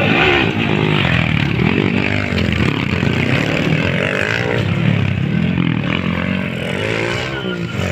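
Motocross dirt-bike engines revving on the track, the engine pitch rising and falling over and over, every second or two, over a steady low drone.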